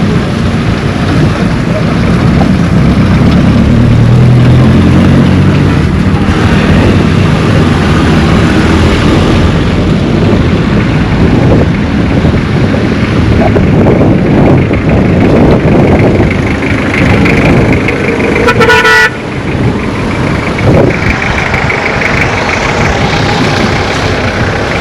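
Road traffic: vehicle engines running and passing close by, swelling about a few seconds in, with a short car horn toot about three-quarters of the way through.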